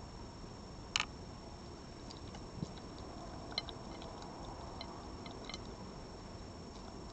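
Scattered faint clicks and ticks over a steady hiss, with one sharper click about a second in and a soft low thump shortly after.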